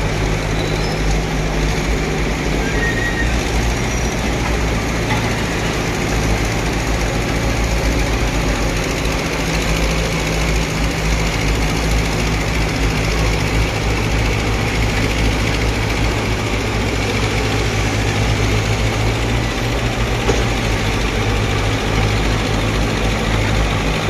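Bulldozer's diesel engine running steadily and loudly, with a deep low hum.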